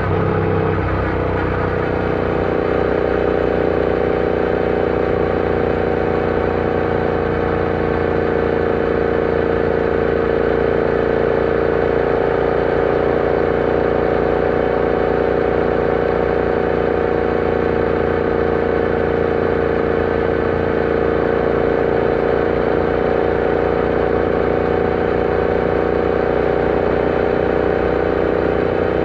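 Royal Enfield Interceptor 650's parallel-twin engine running steadily while riding. Its pitch shifts briefly about a second in, then holds an even note.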